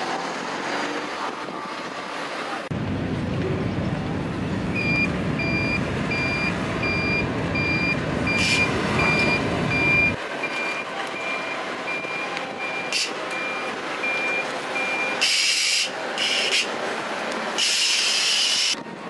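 A vehicle's reversing alarm beeping regularly for about ten seconds, over a low engine rumble that stops about ten seconds in. Near the end come three short, loud bursts of hiss.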